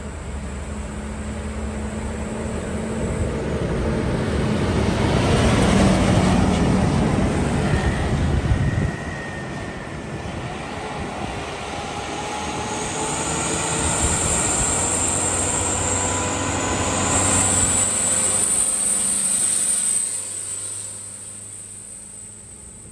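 Heavy diesel trucks passing one after another. The first builds to its loudest about six seconds in and falls away after about nine; a second vehicle rises in the middle with a high whine over its engine and fades out near the end.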